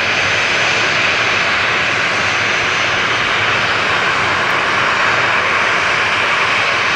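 Jet engines of a Boeing 737-800 (CFM56-7B turbofans) running loud and steady at high thrust during its takeoff.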